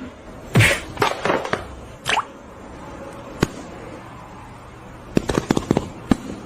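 Irregular sharp knocks and clicks, the loudest about half a second in, and a quick run of them near the end.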